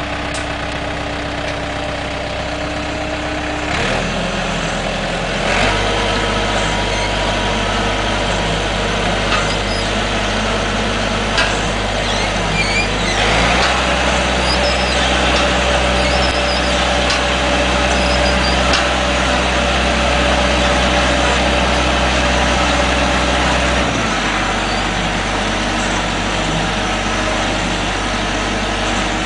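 Heavy machinery engines running steadily. The engine note changes abruptly several times, with a few light clanks in between.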